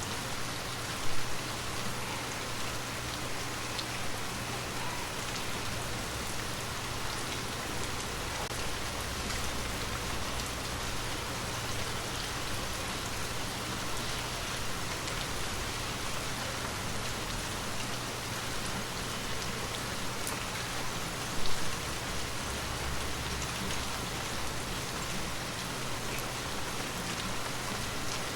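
Gentle rain falling steadily, with scattered drop ticks. Two brief louder thumps stand out, about a second in and again about three-quarters of the way through.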